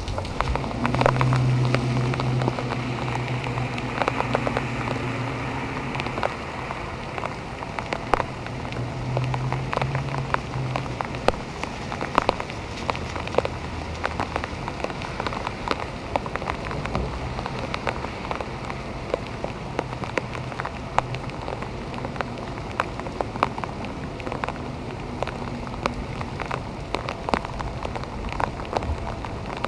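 Heavy rain falling steadily onto pavement and street, with many sharp drip splashes. A low hum runs underneath through roughly the first ten seconds.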